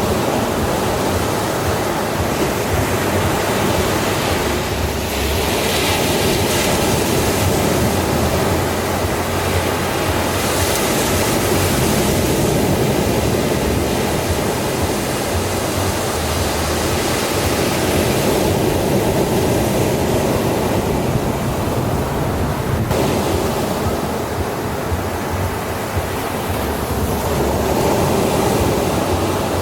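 Ocean waves washing continuously onto a shore, a steady rushing surf that swells and eases gently.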